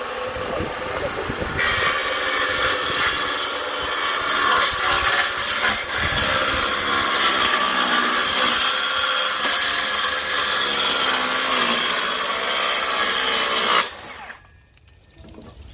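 Milwaukee M18 cordless circular saw running free for a moment, then cutting through wood for about twelve seconds, and cutting off about a second before the end.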